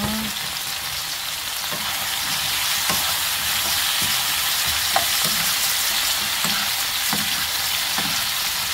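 Sliced pumpkin frying in oil in a nonstick pan: a steady sizzle, with a metal spoon stirring and scraping the pan now and then.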